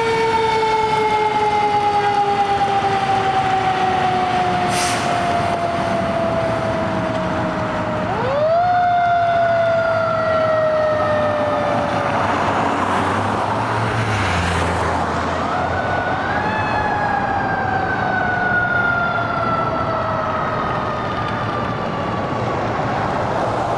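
Fire truck's mechanical siren winding up quickly and then coasting slowly down in pitch, three times over, with road noise beneath.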